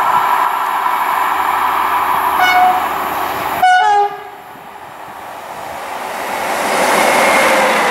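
A train horn gives two short blasts, the second louder, over a steady hum. Then the rumble of an approaching locomotive-hauled Intercités train builds as it nears.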